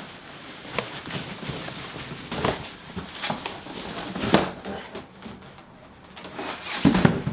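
Cardboard box and its packing being handled and pulled open: irregular rubbing and scraping with a few knocks. The loudest knock comes near the end.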